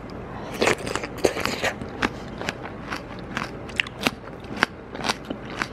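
A mouth chewing crisp salted Thai eggplant (cà pháo) with rice: a run of irregular, crackly crunches.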